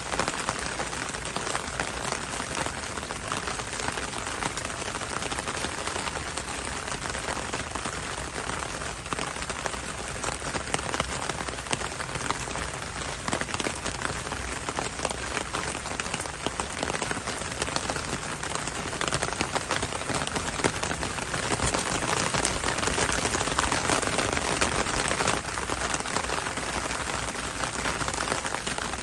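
Heavy rain falling steadily, a dense hiss of drops with many small close ticks of individual drops hitting a surface, swelling slightly louder in the last third.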